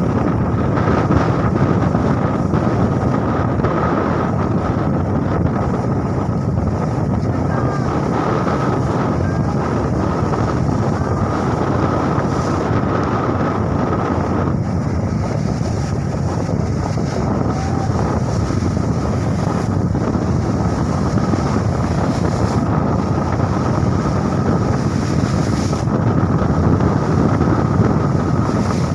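Steady wind buffeting the microphone on a small boat at sea in big waves, with the wash of water underneath and a faint steady whine running through it.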